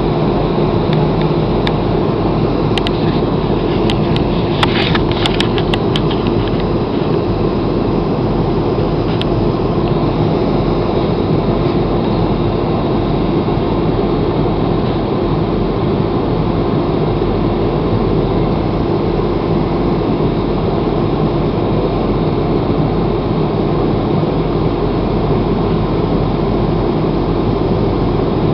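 Steady loud cabin noise of an airliner with its engines running, a constant hum over a deep rumble, with a cluster of sharp rattling clicks a few seconds in.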